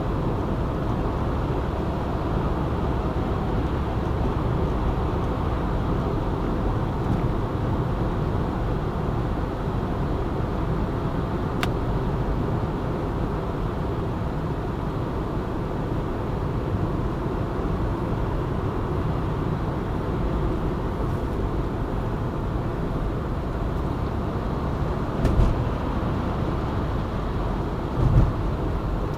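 Steady engine and tyre noise of a car driving, with two brief low thumps near the end.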